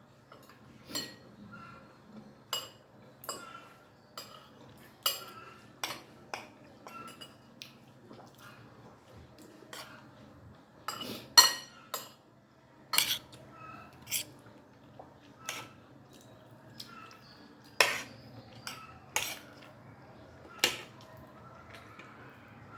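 Cutlery clinking and scraping against a plate during a meal: irregular sharp clinks every second or so, the loudest about halfway through.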